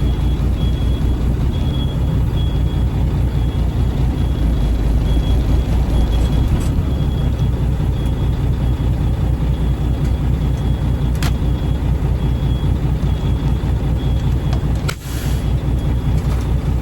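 Triaxle dump truck's diesel engine idling steadily, with a sharp click about eleven seconds in and a short hiss of released air near the end.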